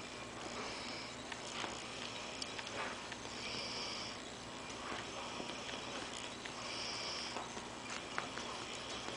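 Young Morkie puppies sniffing and scuffling, with soft scattered clicks. A short high hiss recurs about every three seconds.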